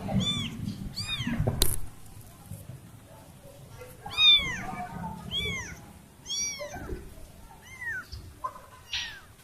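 A kitten meowing over and over, about seven short high-pitched cries, each rising and then falling in pitch. The calls are those of a kitten separated from its family. A single sharp click comes about a second and a half in.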